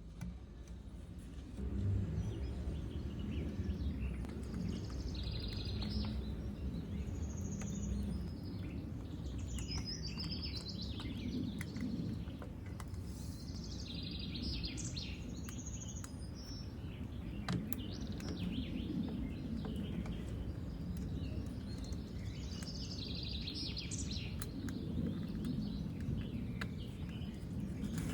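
Birds chirping in several short bursts over a steady low background rumble, with a few faint clicks.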